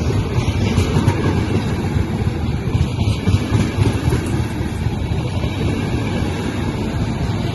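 Train running through a railway station: a steady, loud, low rumble.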